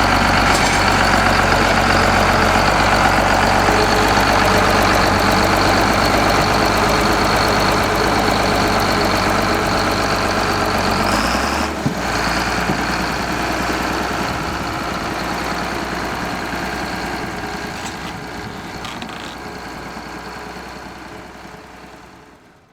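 An engine running steadily. Its low note shifts and drops about halfway through, and the sound then slowly fades away toward the end.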